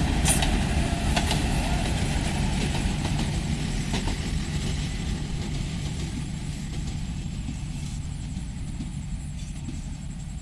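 Passenger train rumbling, with a few clicks in the first second or so; the rumble fades gradually as the train moves away.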